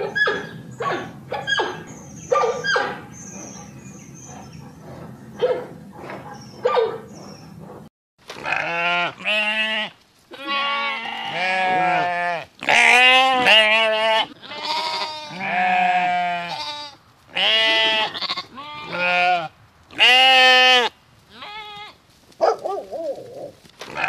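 A giant panda crunching and chewing bamboo, with short sharp crunches scattered through the first eight seconds. Then sheep bleating: a long run of loud, drawn-out bleats, one after another with short gaps.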